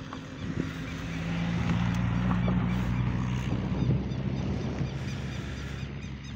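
A car engine running steadily as the car climbs a steep mountain road, growing louder about a second in and fading after about four seconds.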